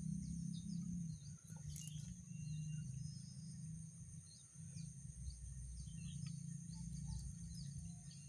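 Rice-field ambience: many small birds chirping over a steady high insect drone, with a steady low rumble underneath.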